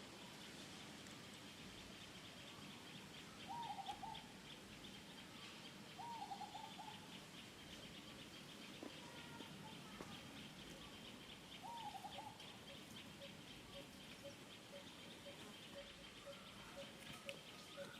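Faint outdoor ambience: a steady pulsing insect chorus, with three short wavering animal calls, one a few seconds apart. In the second half a soft note repeats about twice a second.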